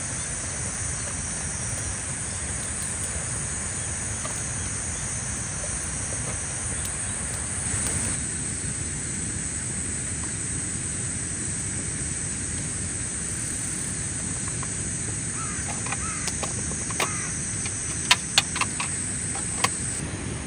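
Steady high-pitched drone of summer insects over a low outdoor rumble, with a handful of sharp clicks and knocks near the end.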